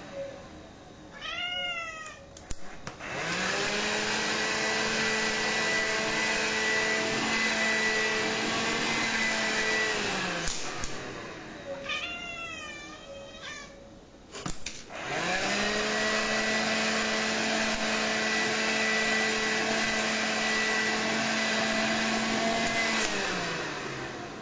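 A Bengal cat meows in a short run of rising-and-falling calls. Then a vacuum cleaner is switched on, runs steadily for several seconds and winds down. The cat meows again, and the vacuum starts up and runs once more before winding down near the end; the cat's meows are its demand to be vacuumed, which it loves.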